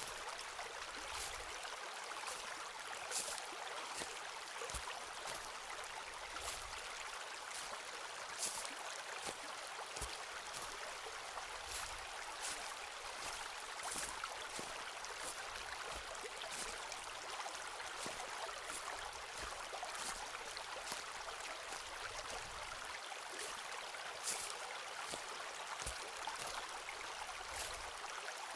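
Footsteps walking along a forest floor, with short crackles and soft thuds as leaves and twigs are stepped on, over the steady rush of a stream.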